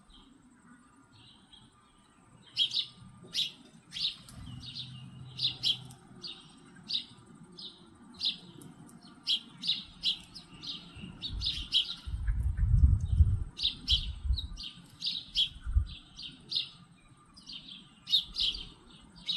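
Birds giving short, high chirps over and over, one to two a second, with a low rumble in the middle.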